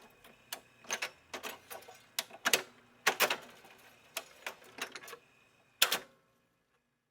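A series of irregular sharp clicks and knocks, about fifteen over six seconds, that stop about six seconds in.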